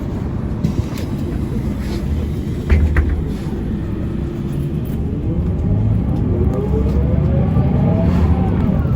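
Mercedes-Benz O405N2 city bus heard from inside on the move: a steady low rumble of engine and running gear, with two short knocks about three seconds in. From about halfway a whine rises steadily in pitch as the bus accelerates.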